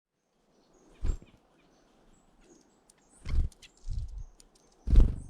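Four soft, low thumps with rustling, unevenly spaced, the last the loudest, with a few faint, short, high-pitched bird chirps between them.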